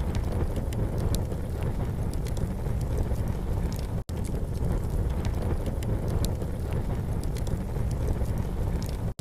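Campfire crackling with scattered sharp pops and ticks over a steady low rumble, with a brief cut-out in the sound about four seconds in.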